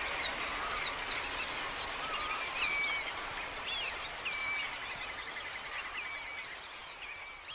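Several wild birds calling and singing over outdoor background noise: repeated short swooping notes and quicker trills overlapping, with the whole sound slowly fading toward the end.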